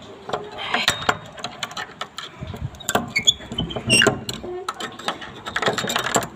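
Irregular clicks, knocks and rustling of objects being handled, with a few short high squeaks near the middle.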